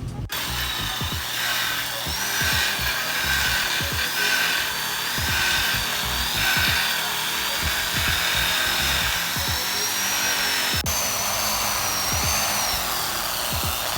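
Power buffing machine polishing an aluminium strut bar, its high motor whine wavering up and down in pitch, over background music.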